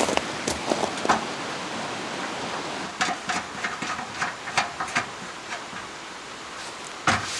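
Steady rush of a mountain stream, with a scattered run of light clicks and knocks over it and a louder knock near the end.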